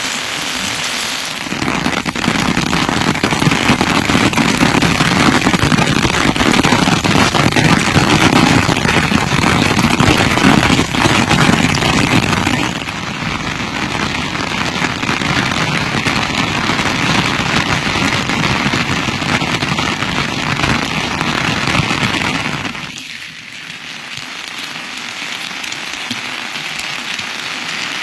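Rain falling, a dense crackling patter. It is heavier in the first half, eases somewhat, then drops to a lighter hiss about 23 seconds in.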